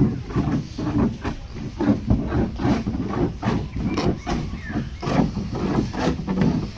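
Irregular knocking and thudding, several knocks a second, of the kind heard while working wood in boat building.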